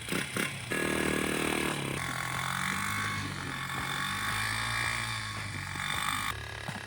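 Pit bike engine running under load as it tows a person on a rope, its pitch rising and falling slowly.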